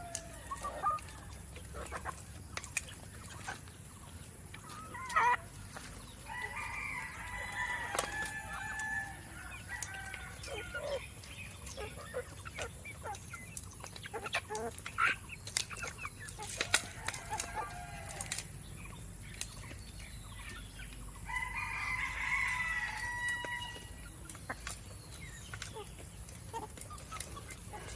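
Four-month-old desi and Fayoumi chickens clucking, with a young cockerel crowing twice: once about seven seconds in and again a little past the twenty-second mark. Scattered sharp clicks run through it.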